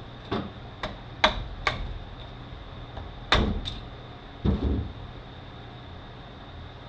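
A string of sharp metal clicks and knocks, about seven in all, from hand tools and gearbox parts being handled as the retaining clips are worked off the shafts of a Mazda six-speed manual transmission. The two loudest come about a second in and a little past three seconds, and a steady faint hum runs underneath.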